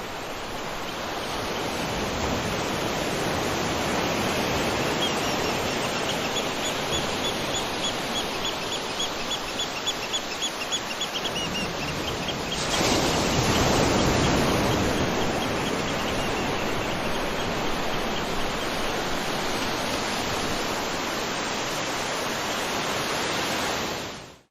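Waterfall water rushing steadily, with a rapid, evenly repeated high chirping over it from a few seconds in until about halfway. Just past halfway the rush turns suddenly louder for a couple of seconds, then it fades out at the very end.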